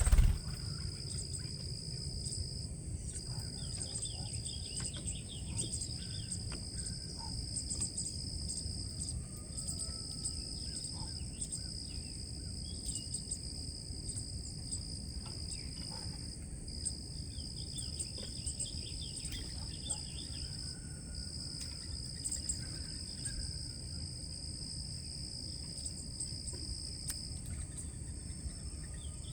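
Steady high-pitched insect chorus, with scattered short bird chirps around the feeder and a low steady rumble underneath.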